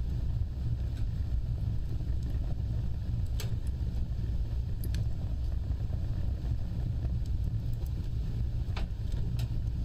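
Fire burning with a steady low roar of flames, broken by a few sharp wood crackles a few seconds apart, two of them close together near the end.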